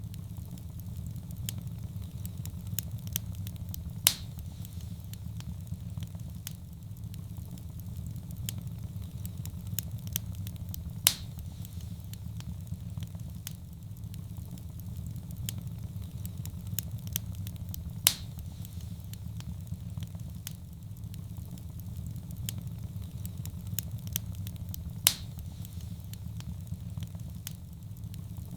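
Wood fire crackling in a fireplace: a steady low rumble of flame under constant small crackles, with four louder pops evenly spaced about seven seconds apart.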